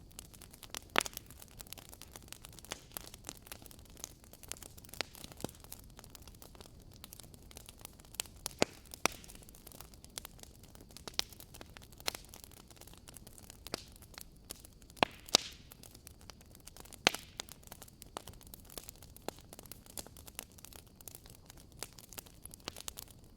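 Campfire crackling: irregular sharp snaps and pops over a faint steady hiss, a few of them louder than the rest.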